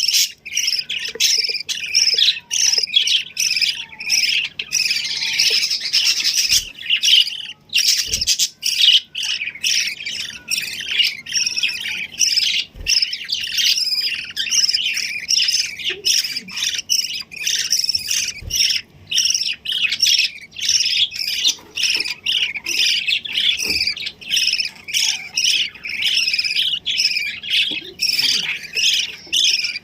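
Small pet birds chirping and squawking nonstop, a dense chatter of rapid, high-pitched calls.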